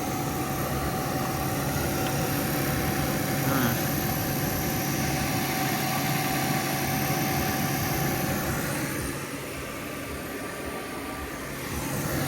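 Electric radiator cooling fan on a Honda Rancher ATV running steadily with a whirring hum after being switched on for a test. It dips somewhat about three-quarters of the way through, then comes back up.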